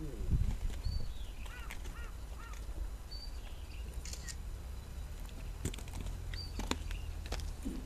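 Birds calling: a run of short arching chirps about a second in, with single high notes every couple of seconds. Scattered sharp clicks and knocks and a steady low rumble sit beneath them.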